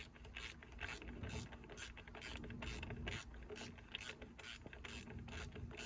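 Socket ratchet clicking in quick, even strokes, about three a second, as it runs down the bolts of an M42 engine's aluminium thermostat housing.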